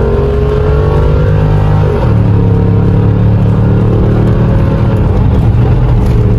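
Car engine running loud and steady under way, with a shift in its note about two seconds in.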